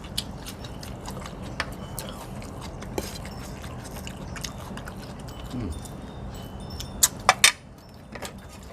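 Light clicks and clinks of tableware during a meal, scattered over a steady low background hum, with three sharper clicks about seven seconds in.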